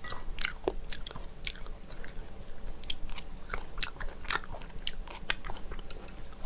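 Close-miked chewing of tteokbokki, chewy rice cakes and flat glass noodles in spicy sauce: a run of irregular wet mouth clicks and smacks.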